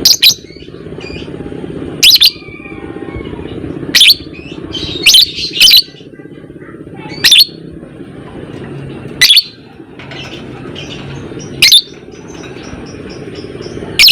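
Lovebird calling: short, shrill shrieks repeated about every two seconds, with fainter chattering between them over a steady low hum.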